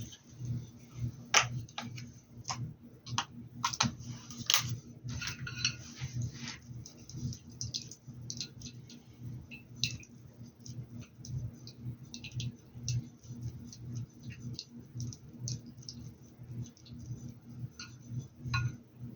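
Irregular light clicks and taps of painting tools and supplies being handled, over a low pulsing hum.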